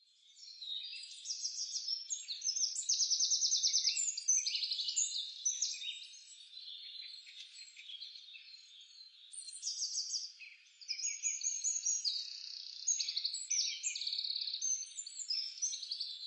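Songbirds singing: many overlapping high chirps and fast trills, with no other sound beneath them.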